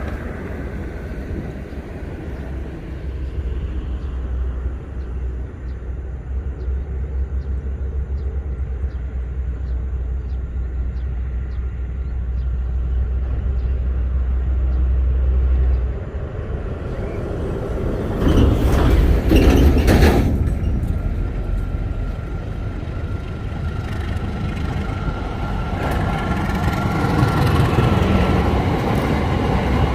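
A train on the railway line: a steady low rumble, then a loud rush of noise lasting about two seconds, about two-thirds of the way through, as it passes. After that the running continues, with a thin steady tone.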